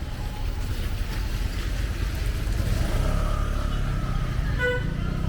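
Rainy street ambience dominated by a steady low rumble. A short pitched tone sounds briefly near the end.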